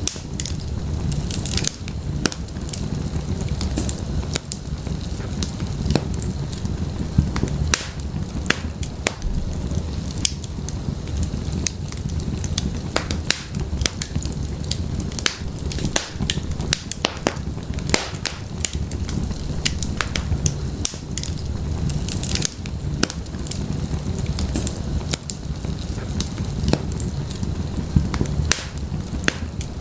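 Wood fire burning in an open fireplace: a steady low rumble of flames with frequent sharp, irregular crackles and pops from the burning firewood.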